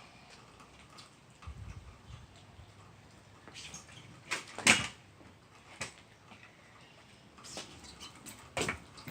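Kick scooter deck and wheels knocking and clattering on the ground during trick attempts, with the loudest cluster of knocks about four and a half seconds in and another run of knocks near the end.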